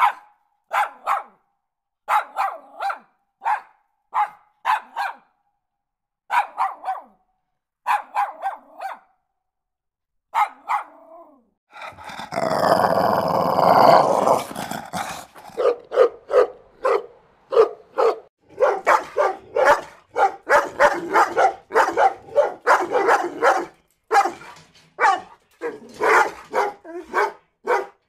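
Dogs barking: short barks in twos and threes with pauses between, then a loud, harsh growl lasting about three seconds, then fast, steady barking at about three barks a second.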